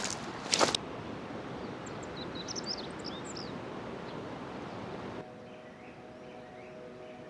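Footsteps crunching on riverbed gravel for the first second, then a steady rushing outdoor noise, likely the river, with small birds chirping. About five seconds in, the sound cuts to a quieter background with a faint steady hum and birds still calling.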